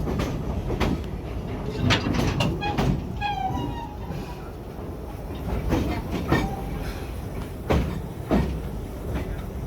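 Park passenger train running along the track, heard from on board: a steady low rumble with sharp wheel clacks every second or so. There is a brief high-pitched sound about three seconds in.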